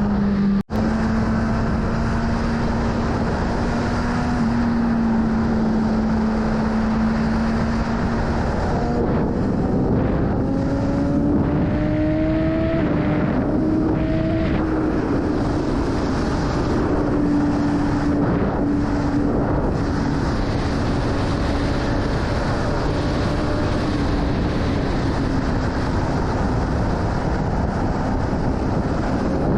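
BMW S1000RR's inline-four engine running at speed under heavy wind noise on the microphone. Its pitch holds steady, climbs gradually about a third of the way in as the bike gathers speed, then eases off a little. The sound cuts out for an instant just after the start.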